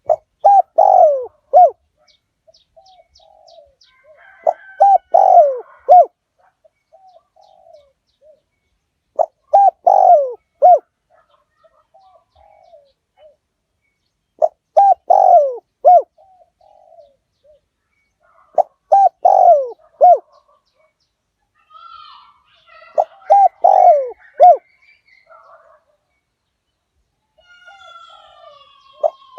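Spotted dove song used as a decoy call: loud phrases of several low coos, each about a second and a half long, repeating about every four and a half seconds. Faint chirps of other small birds sound between the phrases.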